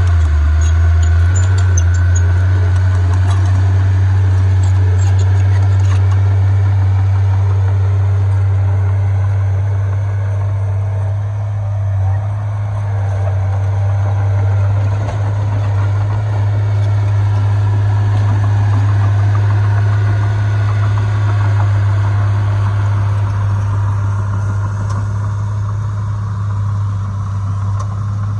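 Heavy earthmoving machine's diesel engine running steadily, a deep, unbroken low drone with mechanical noise above it.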